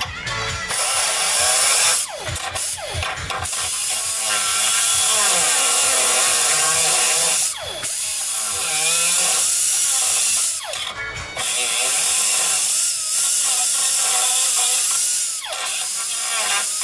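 Power cutting tool, an angle grinder or cut-off wheel, cutting sheet metal from a car body. It cuts in several long runs, and between runs the wheel's pitch falls briefly before cutting resumes.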